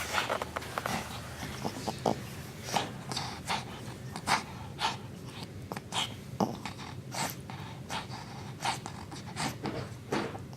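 Small consumer fireworks going off: a long string of irregular sharp pops and crackles.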